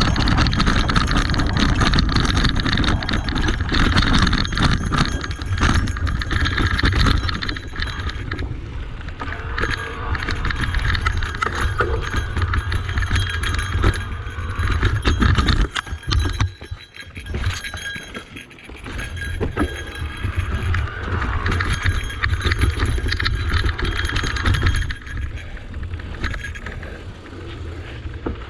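Cube Reaction Hybrid EX 625 electric mountain bike riding over a rough dirt trail, its tyres crunching and its parts rattling and clattering, with wind rumbling on the microphone. The noise eases off for a few seconds a little past the middle, then picks up again.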